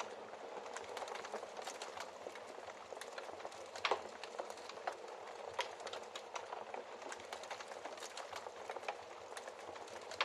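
Wood fire in a fireplace crackling, a soft steady hiss under frequent small sharp pops, with one louder pop about four seconds in.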